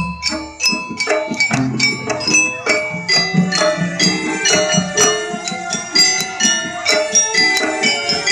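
Jaranan gamelan music: a fast, continuous run of struck metal percussion with ringing, bell-like notes, and a low boom about two seconds in.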